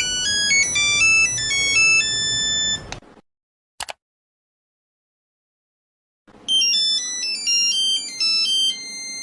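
Two mobile phone ringtones, both electronic melodies of quick stepping notes. The first plays for about three seconds and stops. A short click follows, then a pause, and a second, different ringtone melody starts about six seconds in.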